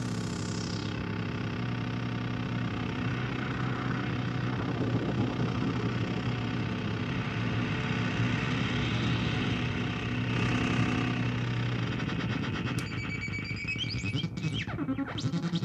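Analog synthesizer drone from a Bleep Labs Pico Paso and a Korg Monotron Delay, run through mixer echo and an analog delay pedal fed back on itself: a dense, noisy wash over a steady low hum. Near the end, pitched tones swoop down and up with repeating echoes.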